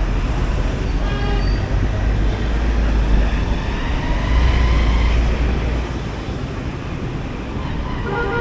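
Road traffic with a steady, loud engine and road rumble. A vehicle horn honks briefly about a second in and again near the end.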